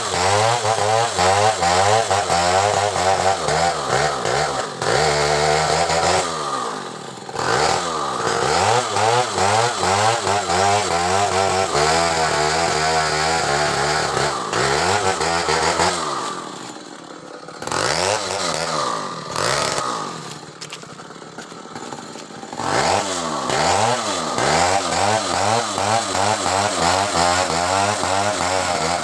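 Chainsaw running at high speed, cutting a coconut palm trunk; its pitch wavers rapidly up and down as the chain bites. It eases off briefly a little past halfway and again about two-thirds through, then picks up again.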